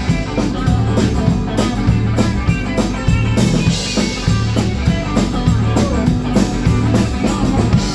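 Live rock band playing an instrumental passage of the song: guitar and drum kit over low bass notes, in a steady, even beat.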